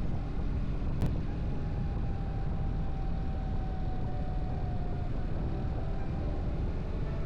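BMW R1300GS boxer twin engine running under way, with wind rushing over the camera microphone and a faint whine that eases slightly lower in pitch. There is a single sharp click about a second in.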